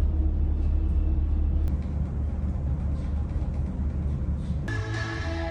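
Steady low rumble of a large car ferry's engines and hull under way at sea. Near the end it cuts abruptly to music.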